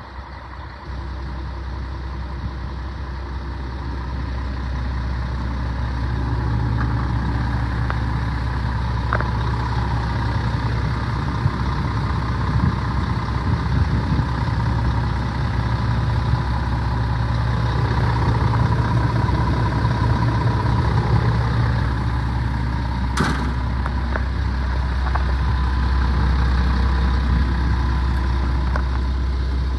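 Scania R500 truck's diesel engine idling steadily, with one sharp click a little over two-thirds of the way through.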